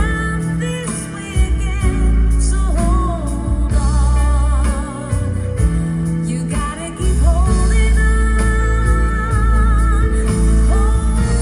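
A slow pop ballad playing through a car audio system: a sung melody with vibrato over guitar and heavy, deep bass.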